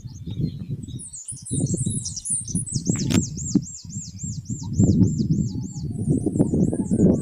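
Several birds chirping and calling, one repeating a quick run of about a dozen sweeping high notes from about two to five seconds in. Underneath runs a low, uneven rumble that is the loudest part.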